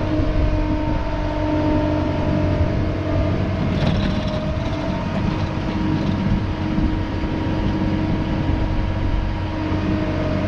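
A truck engine runs steadily as the truck drives, giving an even drone with a low rumble.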